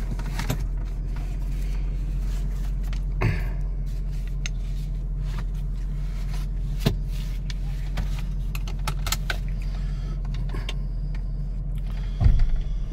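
Mercedes-Benz SL550's V8 engine running steadily at low revs, heard from inside the cabin as a low hum. Scattered light clicks are heard, with a louder thump near the end.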